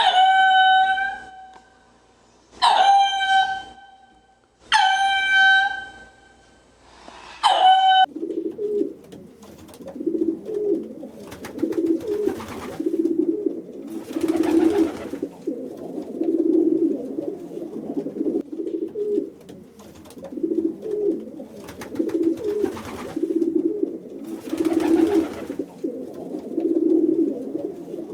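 Pigeons cooing in low, repeated phrases, taking over about eight seconds in. Before that come four loud, clear pitched animal calls about two seconds apart.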